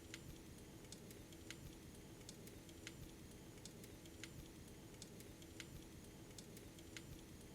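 Faint, near-silent ambience: sharp clicks every half second to a second over a low steady hum.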